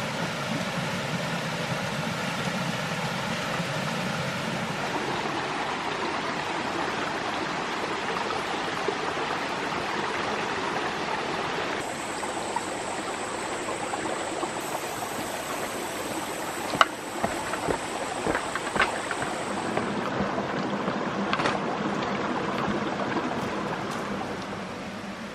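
A steady rush like flowing stream water. A thin high steady tone runs through the middle, and a few sharp clicks or knocks come about two thirds of the way in.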